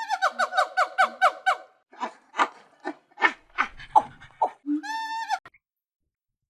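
An animal calling: a rapid run of short falling notes, then a string of separate short calls, then one held call that stops about a second before the end.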